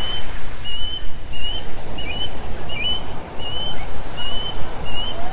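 A bird chirping over and over, short high calls about twice a second, over a loud, swelling wash of sea surf.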